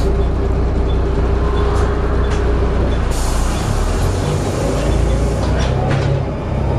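Volvo B7TL double-decker bus engine and Allison automatic gearbox running, heard on board; a short hiss of air about three seconds in, then the engine note drops as the gearbox changes, with a faint rising whine near the end as the bus picks up speed.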